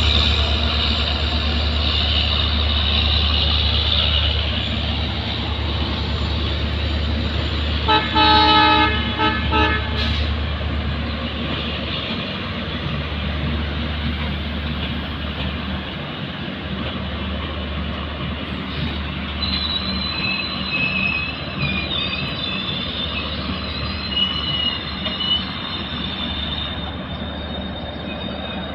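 Diesel-hauled passenger train of LHB coaches rolling slowly past with a steady low rumble. Its locomotive horn sounds once for about two seconds, about a third of the way through. A thin, high wheel squeal comes and goes through the second half as the train slows into the station.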